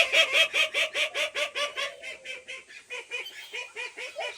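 A duck quacking in a rapid series of about five or six quacks a second. The quacks are loudest at the start and fade gradually.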